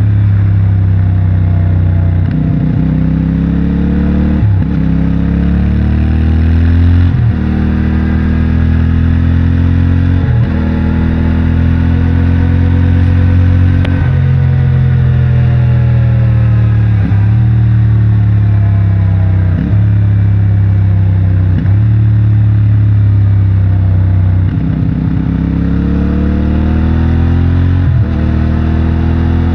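CFMOTO 450MT's parallel-twin engine through its stock exhaust, pulling and easing off on a winding road. Its note rises and falls over and over, broken by about ten quick gear changes.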